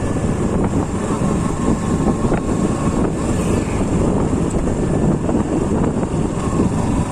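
Wind buffeting the microphone over a motorcycle running along the road at speed, a steady rushing rumble.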